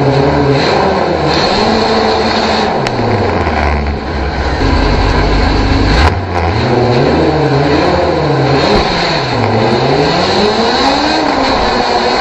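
Race car engine revving loudly, its pitch climbing and falling again several times.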